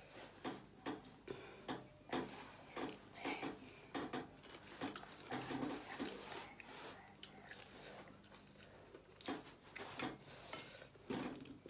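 Someone chewing stir-fried shellfish in short, irregular mouthfuls, with light clicks of shells and cutlery against the plate.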